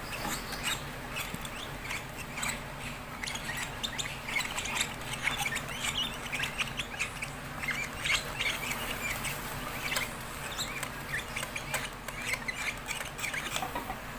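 Fischer's lovebirds chirping and squawking in a rapid run of short, high calls, with scattered small clicks.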